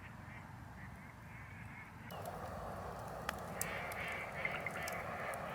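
A flock of geese honking in the distance. About two seconds in, a steady hiss with scattered sharp crackles starts.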